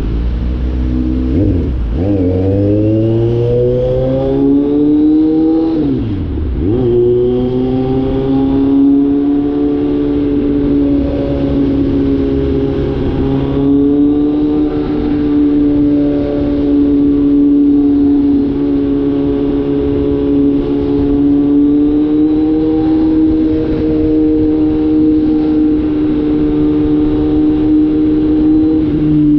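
Kawasaki Z900 inline-four engine with the catalytic converter removed, exhaust note heard while riding. It revs up through the gears in the first several seconds, with a sharp drop in pitch at a shift about six seconds in, then settles to a steady cruise.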